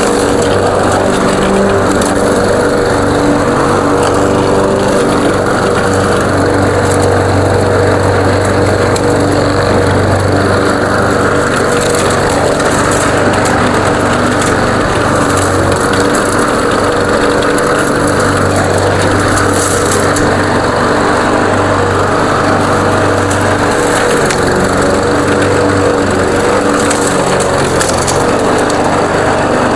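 Weed Eater 21-inch push mower's 140cc PowerMore single-cylinder engine running steadily under load while cutting grass, its low note fading and returning a little as the load changes. It is being run to bring the engine up to full heat.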